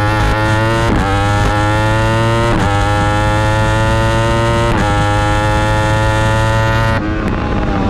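Yamaha R1's inline-four racing engine at high revs under hard acceleration, its pitch climbing in each gear and breaking at quick upshifts about a second, two and a half and four and three-quarter seconds in. About seven seconds in the throttle closes and the pitch falls away.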